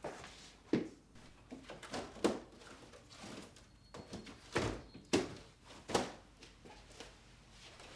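Irregular light knocks and thuds, about eight over several seconds, of household objects being handled and set down.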